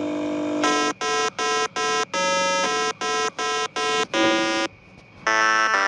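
Electronic beeping: a held tone, then a run of about ten buzzy beeps in which the fifth and tenth are longer and lower. After a short pause, a denser, alarm-like buzzing tone starts near the end.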